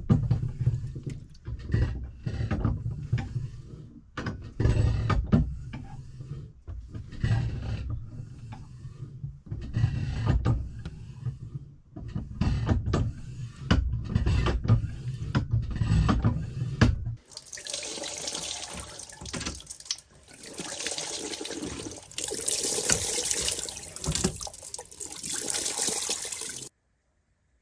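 Marine hand water pump being worked stroke after stroke, with irregular knocks over a low rumble. About seventeen seconds in, a steady rush of water starts and runs for about ten seconds, then stops suddenly.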